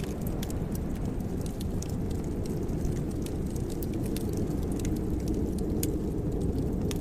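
Wood fire in a fireplace crackling: scattered sharp pops and ticks over a steady low rumble.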